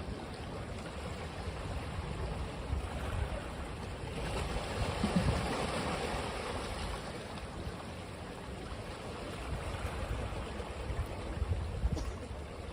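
Ocean waves washing onto a beach, a wave swelling and breaking about four seconds in, then washing back out.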